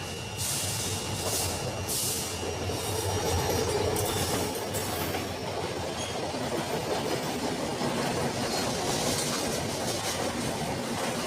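A train running along the tracks: a steady rumble of wheels on rail, with a few short hissy bursts in the first couple of seconds.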